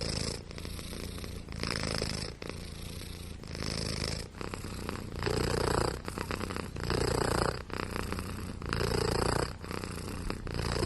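Domestic cat purring close to the microphone, a continuous rumble that swells and eases about every one and a half to two seconds as it breathes in and out.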